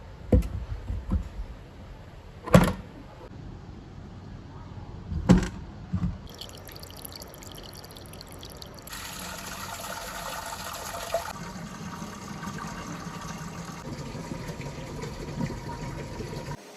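Marbles rolling on a marble run: a few sharp knocks in the first six seconds, then a steady rolling rush along the track that swells for a couple of seconds and cuts off suddenly near the end.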